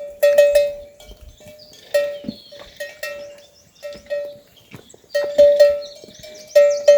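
Livestock bells clanking irregularly as the animals move. The same ringing note comes again and again in quick clusters of two or three strikes.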